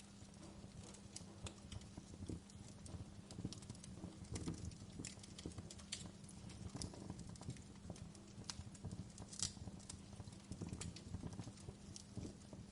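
Wood fire crackling in a fireplace: irregular small snaps and pops, with one louder pop about nine seconds in, over a low rumble and a steady low hum.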